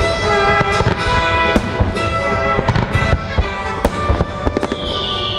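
Fireworks shells bursting in a rapid string of booms and pops over the show's patriotic music soundtrack. A high hiss comes in near the end.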